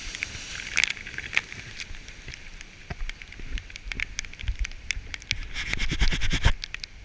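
Water spray spattering on a GoPro Hero3+ housing: an irregular crackle of droplet hits, thickest from about five and a half to six and a half seconds in, over a low rumble.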